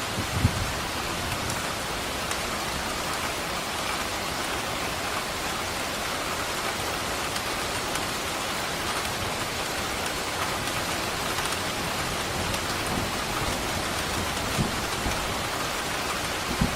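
Steady, even rain falling on a surface. A few brief low thumps are heard about half a second in, near the end and once shortly before it.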